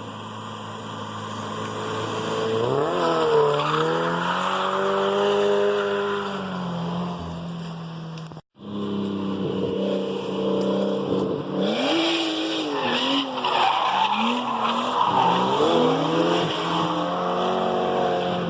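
Drift car engine revving hard, its pitch climbing and falling as the throttle is worked through a slide, with tyres squealing. The sound breaks off for a moment about eight and a half seconds in, then more revving and tyre squeal follow.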